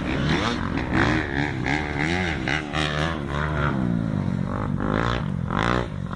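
An engine running, its pitch rising and falling repeatedly.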